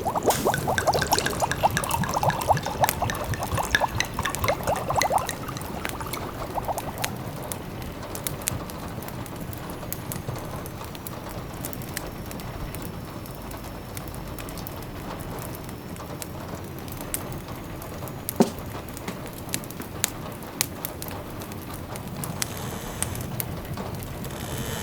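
Layered cottage ambience: a steady patter of rain with scattered sharp crackles from a wood fire. For the first five seconds or so a pot bubbles on top of it.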